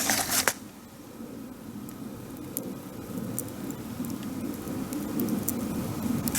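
Campfire burning with scattered sharp crackles and pops over a steady hiss. A brief louder scraping noise stops about half a second in.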